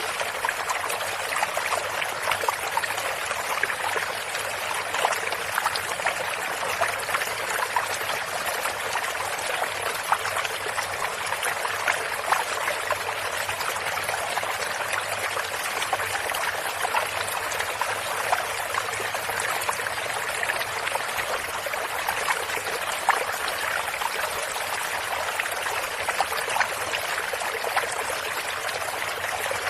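A small stream or creek running steadily, with many small splashes and trickles over stones.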